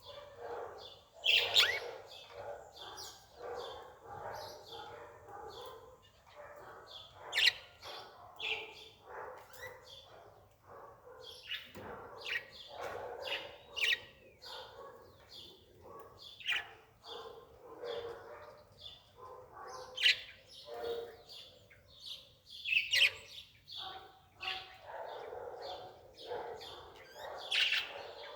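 Birds chirping: many short, sharp calls come irregularly, one after another.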